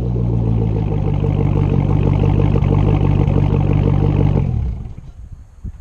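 Chevrolet Camaro SS's 6.2-litre V8 running steadily through a muffler-and-resonator-delete exhaust with an X-pipe, then shut off about four and a half seconds in.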